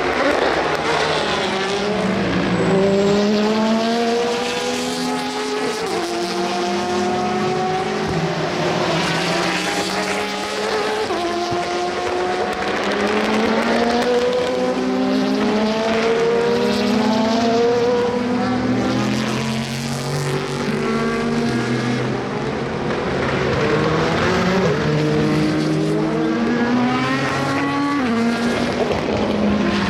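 Endurance race cars accelerating hard one after another, each engine climbing in pitch and dropping sharply at every upshift, with two or more cars often heard at once.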